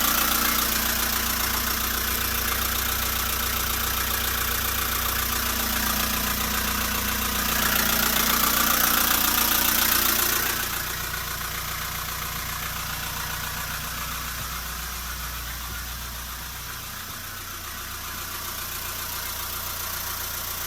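Nissan Civilian bus's ED33 inline-six diesel engine running steadily at idle. It grows louder between about 7 and 10 seconds in, then settles back quieter.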